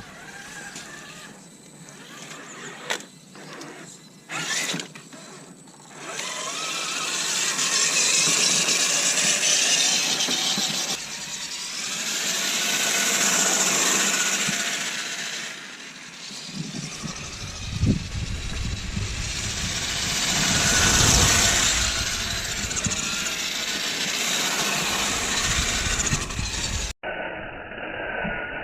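Small RC crawler's electric drivetrain whirring in several long swells as the throttle is applied and eased, with a few sharp clicks early on.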